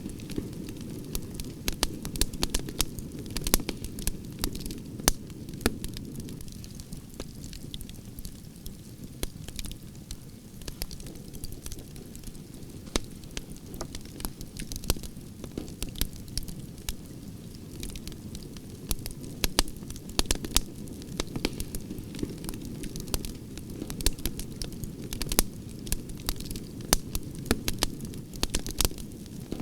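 Campfire of burning wood branches crackling, with frequent sharp irregular pops and snaps over a steady low rumble of flame.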